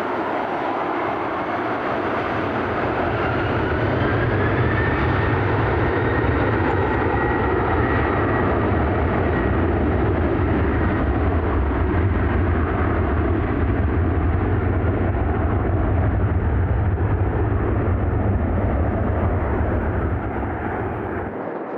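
Airliner's turbine engines running loud as the aircraft goes by: a deep, steady rumble under a whine that rises in pitch over the first several seconds. The rumble drops away near the end.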